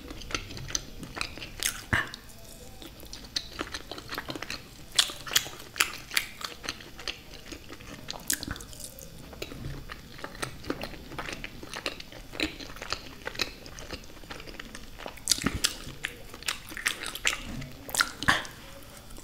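Close-miked eating of tandoori soya chaap pulled off a skewer: bites and chewing, with irregular sharp mouth clicks and wet smacks.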